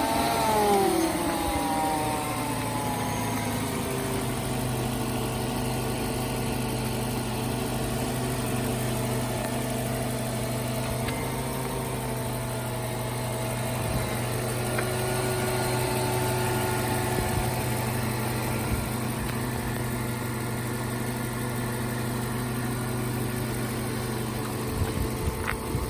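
Mercedes-Benz SL500's V8 engine just after a cold start: the revs fall from the start-up flare over the first couple of seconds, then settle into a steady idle. A few short clicks come near the end.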